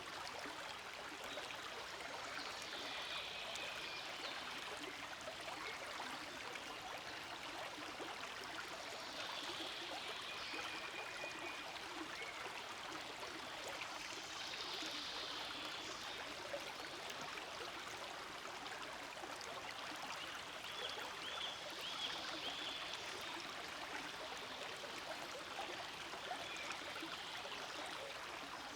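Forest stream flowing steadily over stones, a continuous rushing and gurgling of water.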